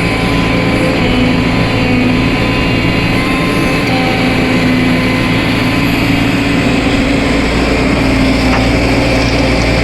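Excavator's heavy diesel engine running steadily with an even, unbroken hum.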